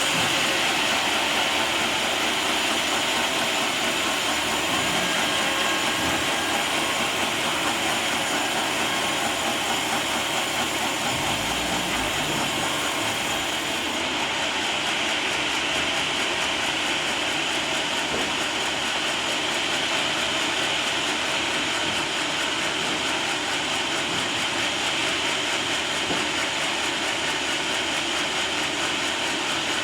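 Sawmill band saw running steadily, sawing a teak log into boards.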